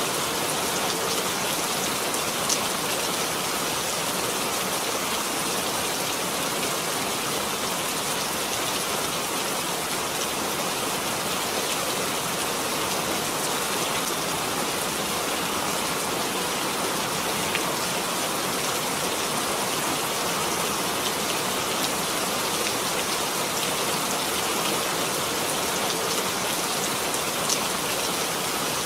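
Steady rain falling, an even hiss of many drops with a few sharper single drop ticks now and then.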